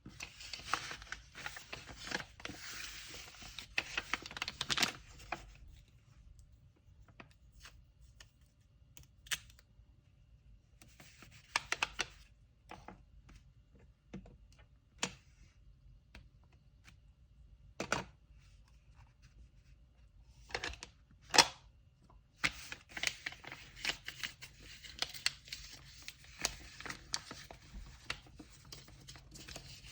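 Packing materials handled on a table: kraft paper rustling and crinkling in dense stretches at the start and through the last third, with scattered light taps and clicks in between. The sharpest click comes about two-thirds of the way through.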